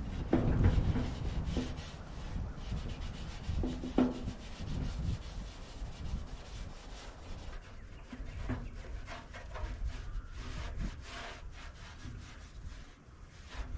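Hand rubbing and scrubbing on a backhoe dash panel in irregular strokes, cleaning oil residue off it before paint. There is a sharper knock about four seconds in.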